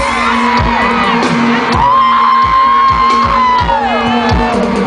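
Live electronic dance music over concert speakers: a deep kick drum about twice a second under steady bass notes and a held synth note that slides down near the end, with the crowd whooping.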